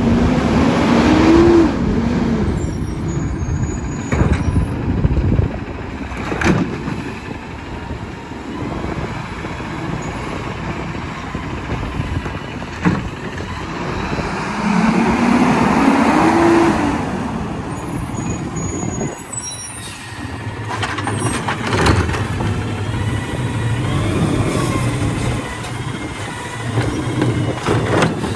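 McNeilus AutoReach automated side-loading garbage truck at work: its engine revs up and back down twice, near the start and about halfway through, with clanks and knocks in between.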